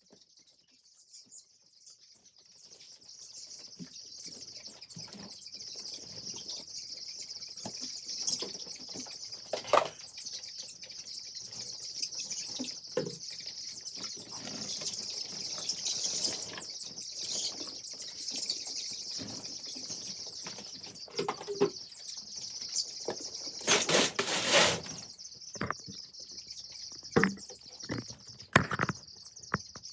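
A flock of two-week-old broiler chicks peeping continuously in a dense, high-pitched chorus that builds up over the first few seconds. Scattered short knocks and rustles sound through it, with a louder rustling flurry about three-quarters of the way through.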